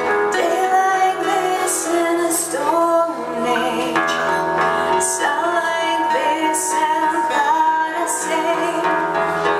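A live band playing a song, with a woman singing held, gliding notes over sustained instrumental chords.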